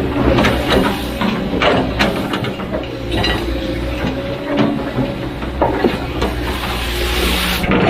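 Heavy diesel machinery running steadily, with repeated metallic clanks and knocks of the machine working.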